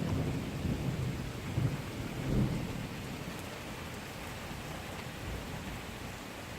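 Thunder rumbling over steady heavy rain in a thunderstorm. The rumble surges in the first half, strongest about two and a half seconds in, then dies away, leaving the even hiss of the rain.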